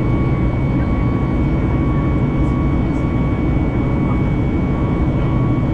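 Boeing 737 MAX 8-200's CFM LEAP-1B jet engines heard inside the cabin as a steady, loud low rumble, with two thin steady high-pitched whines over it.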